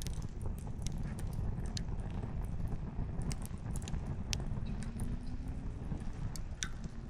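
Wood campfire crackling: irregular sharp pops and snaps from the burning logs over a steady low rumble.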